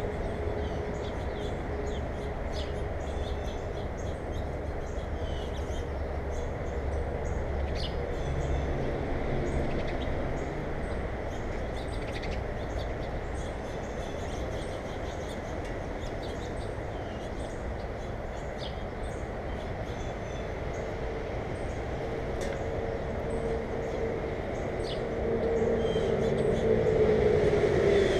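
Steady mechanical rumble, with a hum that grows louder and drops in pitch near the end, as of a passing vehicle. Faint short bird chirps sound over it.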